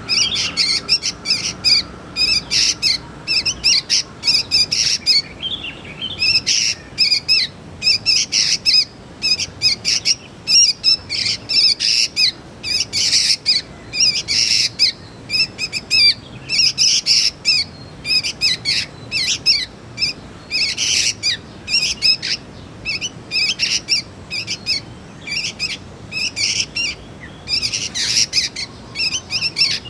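Young sooty-headed bulbul calling: rapid short chirps, repeated in clusters with brief gaps.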